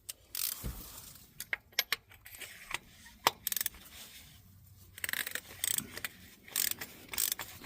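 Metal hand tools clinking, with short runs of ratchet clicking, during spark plug work on a four-cylinder engine.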